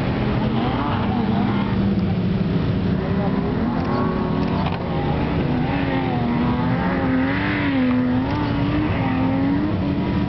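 4x4 SUV engines revving during dune bashing on loose sand, the engine note wavering up and down as the throttle is worked, over a steady rush of noise.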